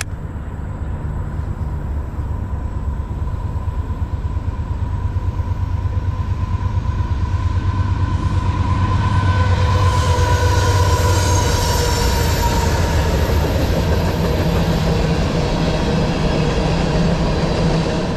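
A train passing close by, its rumble building to a peak about ten seconds in and staying loud, with steel wheels squealing on the rails.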